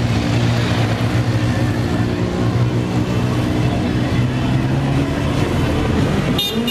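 Motorcycle engines running steadily, a low, even engine note. A short, sharp noise interrupts it near the end.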